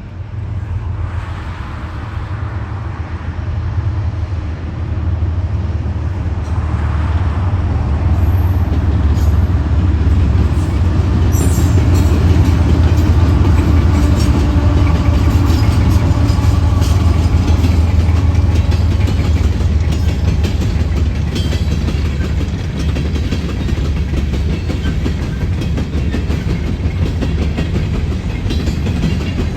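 A CSX coal train powered by GE Evolution-series diesel-electric locomotives passes. Its deep engine and rail rumble grows louder over the first several seconds, then holds steady, with wheels clicking over the rail joints as the cars roll by.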